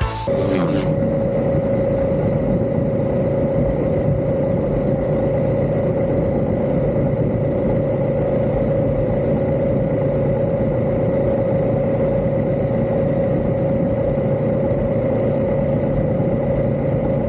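Motorcycle engine running steadily at a constant speed, a steady drone that holds one pitch throughout.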